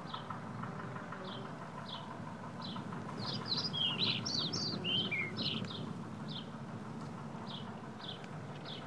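Garden birds: one bird repeats a short falling chirp about one and a half times a second, while a second bird sings a brief, varied twittering phrase in the middle, the loudest part. A low steady background rumble runs underneath.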